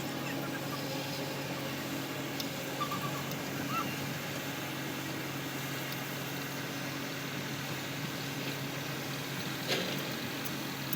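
An engine running steadily with an even, unchanging hum, and a couple of faint metallic clicks.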